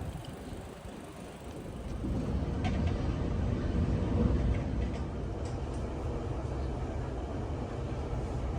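Train rumbling, swelling about two seconds in and then running steadily.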